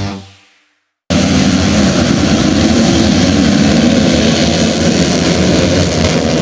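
Rock music fades out, and after a brief silence a motocross dirt bike engine cuts in about a second later, running loudly and steadily.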